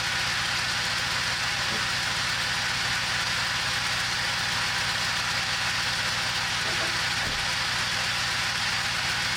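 Freshly swapped turbodiesel engine in a Peugeot Expert van running steadily on its first start, with an even, fast firing and no let-up. It runs fairly smoothly, though the mechanic believes the turbo is drawing in oil.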